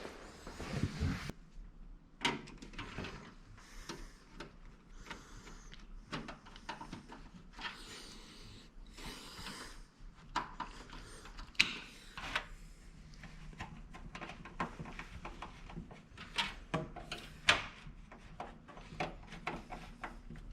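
Scattered clicks, taps and scrapes of metal and plastic parts being handled and screwed into a computer case during assembly.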